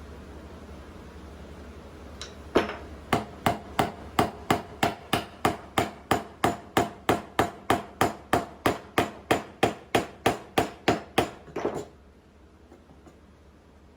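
Hammer blows on wood, a steady run of about three strikes a second lasting about nine seconds, then stopping.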